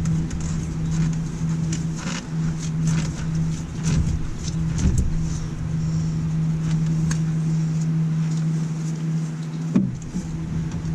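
A steady machine hum of unchanging pitch, with a low rumble under it that drops away near the end, and scattered clicks and knocks.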